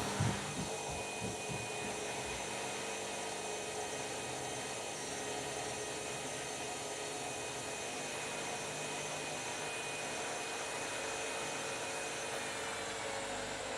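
Washing machine running a cycle: a steady whir with a faint high whine, and a few low thumps in the first second or so.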